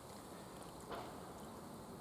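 A single soft click about a second in, over a faint steady hiss.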